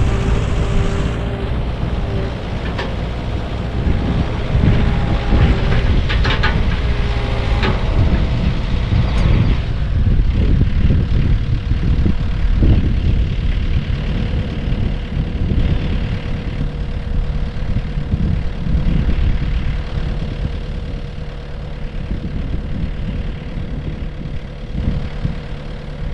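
Komatsu mini excavator's diesel engine running steadily, with a pitched hydraulic whine and a few knocks in roughly the first nine seconds as the machine's hydraulics are worked.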